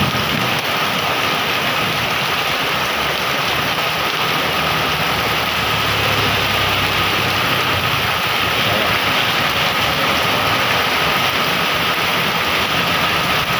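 Heavy rain falling steadily in a dense, even hiss, with a faint low hum underneath.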